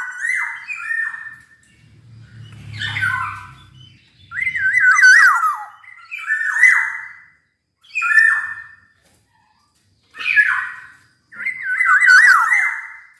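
Black-naped oriole (kepodang emas) singing in full voice: repeated short phrases of fluty, wavering whistles, one every one to two seconds.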